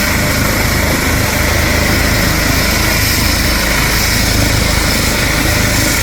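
Helicopter running close by: a steady, loud roar of turbine and rotor, with rotor downwash blowing across the microphone.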